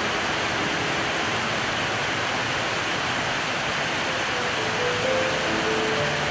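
Steady rain on corrugated metal and tiled roofs, with water streaming off the eaves: an even, unbroken hiss.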